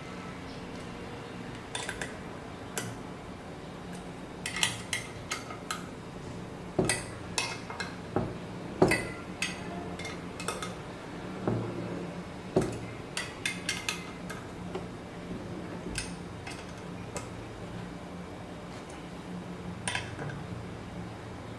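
Irregular metal clicks and clinks of a hand tool working on steel bolts as the Z-axis linear rail's bolts are tightened down, some with a short metallic ring.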